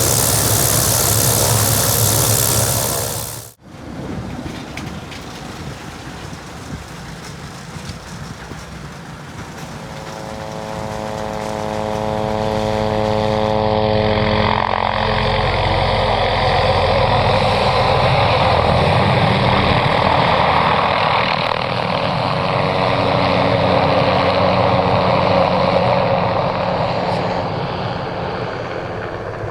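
MD 500D helicopter's turbine and rotor running, heard across edits. A loud rush of rotor wash and wind for the first few seconds cuts off suddenly. The sound then grows again, with a steady engine tone that gives way to a loud rush from the middle on.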